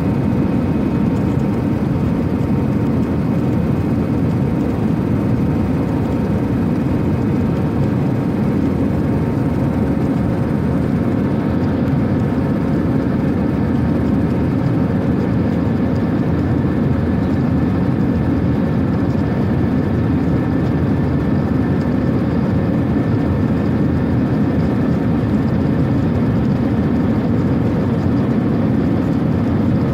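Airplane engines running steadily during takeoff: a constant loud low drone with faint steady whine tones above it, unchanging throughout.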